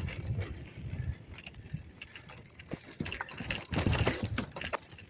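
Bicycle on a trail: the rear freewheel ticking and the bike rattling over bumps, heard muffled from a phone in a pocket with clothing rubbing against it. The clicks and rattles are busiest about three and a half to four and a half seconds in.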